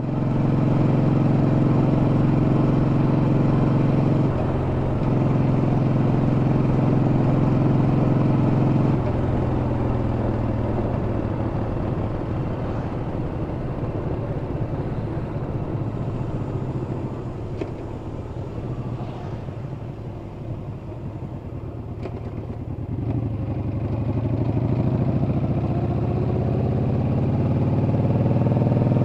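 Yamaha XV950 V-twin motorcycle engine under way, with a brief dip about four seconds in. It eases off and gets quieter from about nine seconds in, then picks up again with rising pitch as it accelerates near the end.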